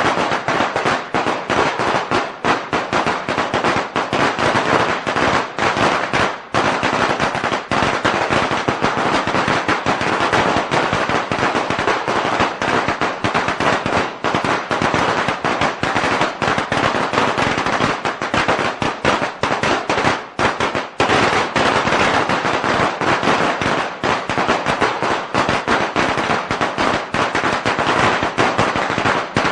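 A long string of Chinese firecrackers (鞭炮) going off in a continuous, very rapid crackle of bangs that does not let up.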